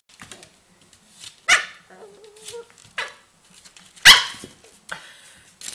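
A dog barking several times in short, sharp barks, the loudest about four seconds in.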